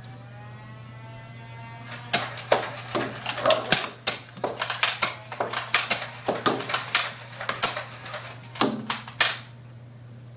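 Nerf blasters firing foam darts in a small room: a rapid, irregular run of clicks and snaps that lasts about seven seconds, then stops.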